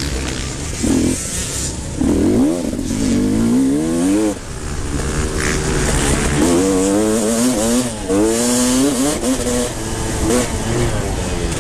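Motocross bikes racing, engines revving hard with the pitch climbing and falling over and over as they accelerate and shift.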